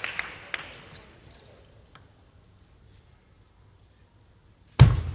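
Crowd applause dying away in the first second, with a few scattered claps, then a quiet spell broken by a sudden loud thump near the end.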